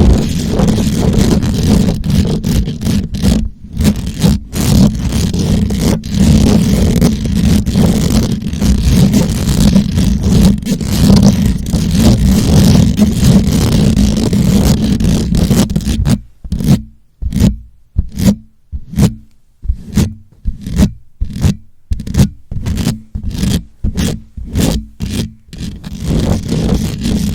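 Microphone being scratched up close for ASMR, loud: dense, continuous scratching for most of the time, then from about two-thirds of the way in separate scratch strokes about two a second.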